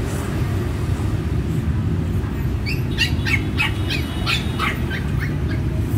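A bird gives a quick run of about a dozen short, high chirps, starting a little before halfway and stopping about a second before the end, over a steady low rumble.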